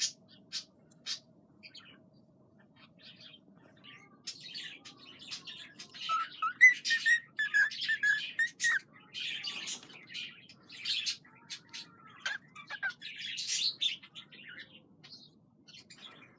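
Cockatiel chirping in short, harsh calls, with a run of clear whistled notes in the middle.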